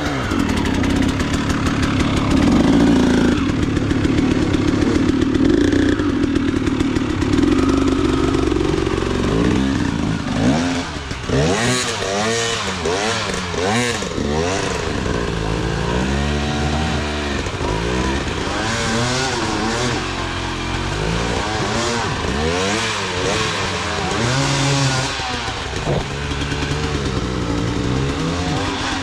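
Motorcycle engine running at a fairly steady note for several seconds, then revved up and down over and over, its pitch rising and falling every second or so.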